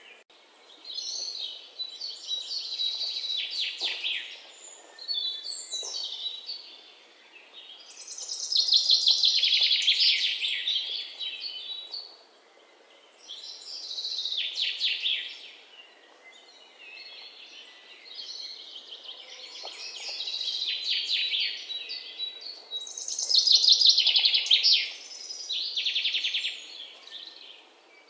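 Songbirds singing: a run of high, rapid trilling phrases, each a second or a few long, with short pauses between them.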